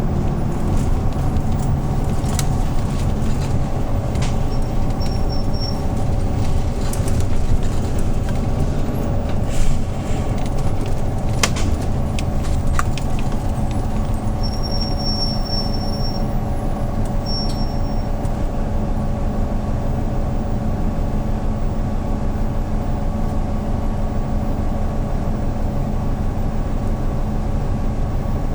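A 2013 Hyundai New Super Aero City CNG city bus's engine running steadily, heard inside the cabin as a low hum. Scattered rattles and clicks come through it, and a thin high squeak sounds briefly a few times in the middle.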